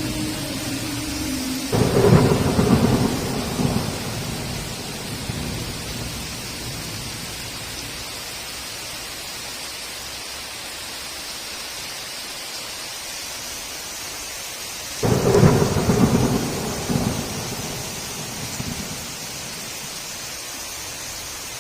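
Steady heavy rain with two thunderclaps, one about two seconds in and one about fifteen seconds in, each a loud crash that rumbles away over about two seconds.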